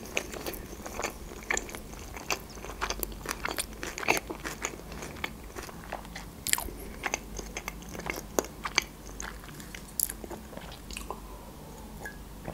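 A person chewing a mouthful of sushi roll, with many sharp, crunchy clicks. The clicks thin out about ten seconds in.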